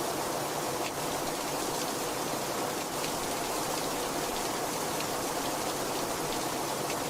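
Very heavy rain falling steadily: a dense, even hiss with faint scattered drop ticks.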